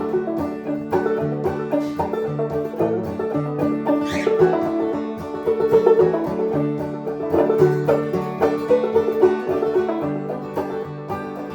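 Instrumental break of a band's song with no singing: plucked string instruments playing a steady rhythm.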